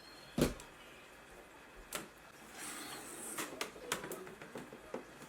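Household objects being handled: a sharp knock about half a second in, a rustle a little later, then a run of small clicks and taps.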